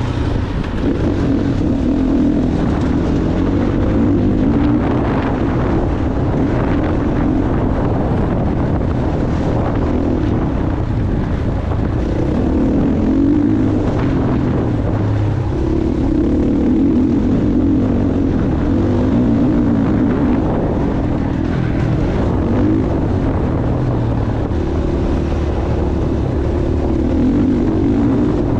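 Motocross dirt bike engine running hard around a track, its note rising and falling every few seconds as it accelerates and backs off, with wind rumble on the microphone underneath.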